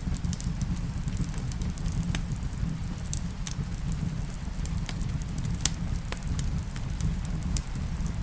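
Fireplace wood fire crackling: scattered sharp pops and snaps, a few a second, over a steady low rumble.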